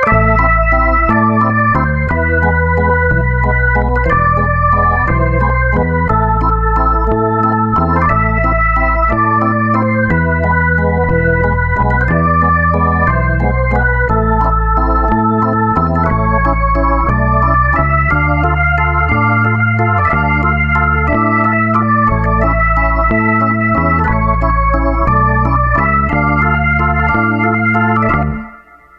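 Background music played on an organ-like electronic keyboard: sustained chords over a moving bass line, ending abruptly near the end.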